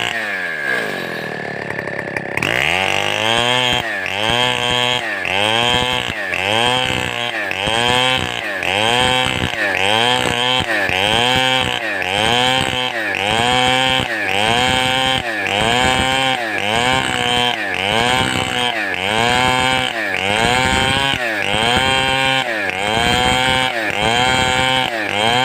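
Large two-stroke chainsaw of the Stihl 070 type, revved up and down in a steady rhythm about once a second: the 'swing' throttle technique. At the start the revs die away, then the rhythmic revving picks up about two and a half seconds in.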